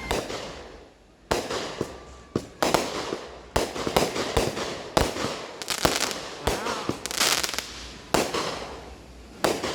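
Fireworks going off in an irregular series of sharp bangs, about one or two a second, each trailing off in an echo, with a burst of crackling hiss about seven seconds in.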